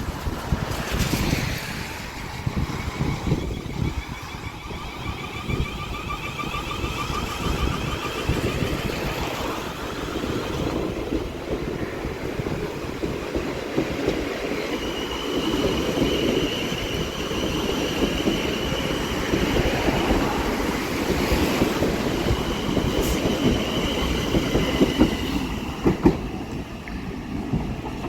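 Electric passenger train heard from inside the carriage while running, a steady rumble and rattle of wheels on the track. A wavering high whine rises over the first ten seconds, and a steady high whine runs through much of the second half.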